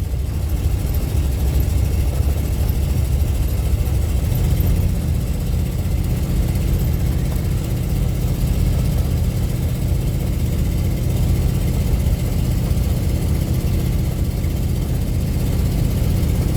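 Steady low rumble of a car driving, engine and road noise heard from inside the cabin, with a faint steady hum that sets in about four seconds in.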